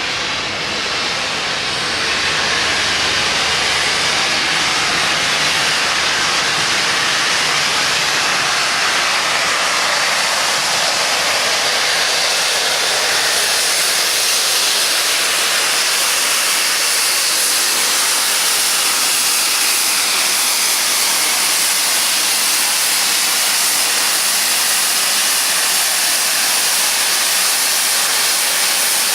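Peppercorn A1 class steam locomotive 60163 Tornado giving off a loud, steady hiss of escaping steam. The hiss swells over the first couple of seconds, then holds evenly throughout.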